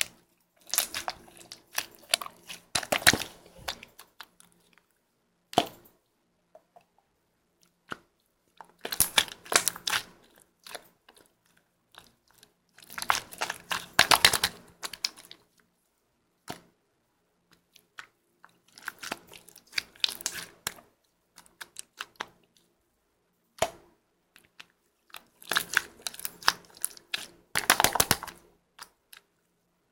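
Slime being squeezed and kneaded by hand, making dense clicking and crackling in spells of one to three seconds, about five times, with near-quiet pauses between.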